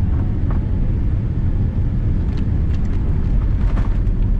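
Cabin noise inside a Boeing 787-8 Dreamliner powered by General Electric engines: a loud, steady, deep rumble of engines and airflow. A few light clicks and rattles come between about two and four seconds in.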